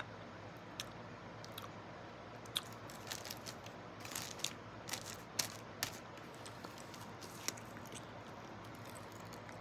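Close-up chewing of a chocolate-dipped frozen banana with pistachios and almonds: scattered faint crunches and mouth clicks, most of them in the middle stretch.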